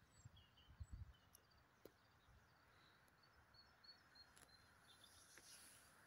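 Near silence outdoors, with a few faint, short, high bird chirps and some low rumbles in the first second.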